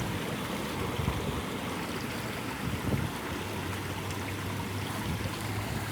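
Steady rushing of water from a pond's waterfall, an even continuous hiss.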